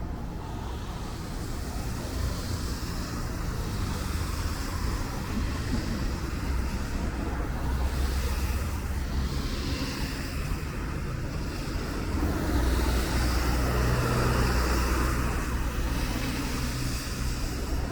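City road traffic on wet streets: cars passing with a low engine rumble and tyre hiss, swelling louder twice as vehicles go by.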